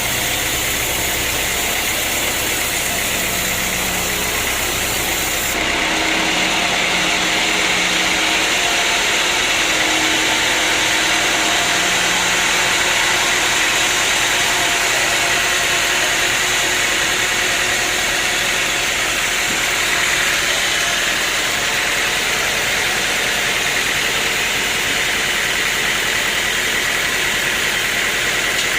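Sawmill machinery running steadily: a continuous mechanical drone and hiss with a faint steady whine, changing abruptly in tone about five and a half seconds in.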